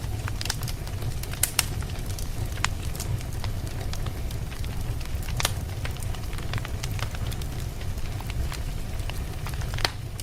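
Campfire burning with a steady low rumble and irregular sharp crackles and pops from the burning wood, a few louder pops standing out.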